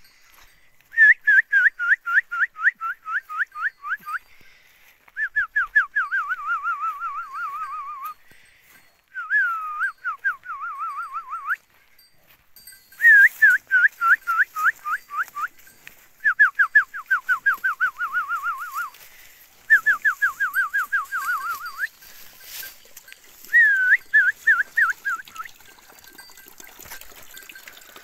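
A bird calling in seven runs of rapid whistled notes, about ten a second. Each run lasts two to three seconds and sinks in pitch as it goes.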